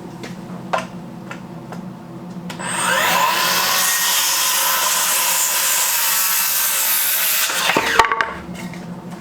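Electric power saw spinning up with a rising whine about two and a half seconds in, cutting through a wooden board for about five seconds, then winding down with a falling whine. A few light knocks come before it.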